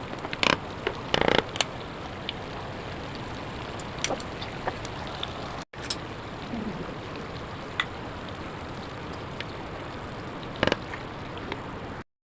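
Food sizzling and crackling as it fries in a pan, a steady hiss dotted with small pops. A few brief knocks, likely a utensil against the pan, come about half a second and a second in, and again near the end.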